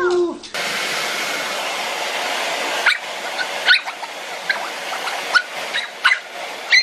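A dog's howl sliding down in pitch and stopping right at the start, then short high dog whimpers every second or so over a steady hiss.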